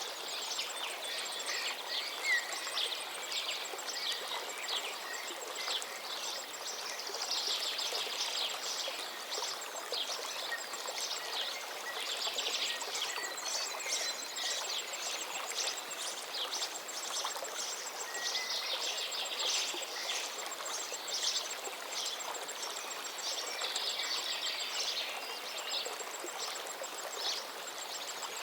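River water flowing steadily, with many small birds chirping and singing over it without a break, and a faint, fast, high ticking trill coming and going.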